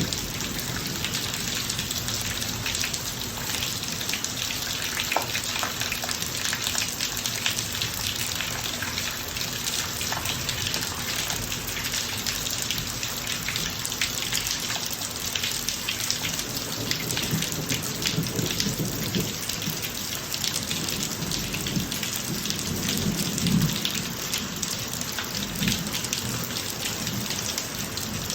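Steady rain falling and splashing on a driveway, dense with individual drop hits, with low rumbles of thunder in the second half.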